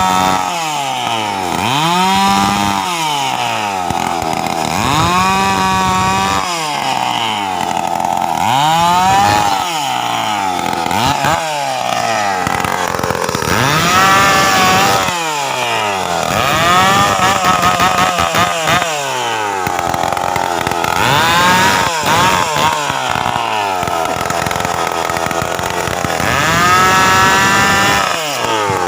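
Stihl chainsaw's two-stroke engine revved over and over, its pitch rising to high revs and falling back towards idle about every two to three seconds.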